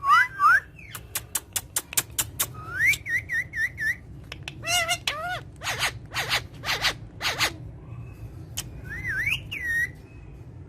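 A parrot whistling short rising notes, with sharp clicks and a run of harsh, screechy calls in the middle, then a warbling whistle near the end.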